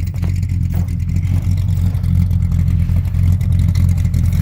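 Mildly built 355 V8 in a 1978 Pontiac Trans Am idling through long-tube headers, a 2.5-inch exhaust and Dynomax Super Turbo mufflers: a steady, low, mellow exhaust rumble.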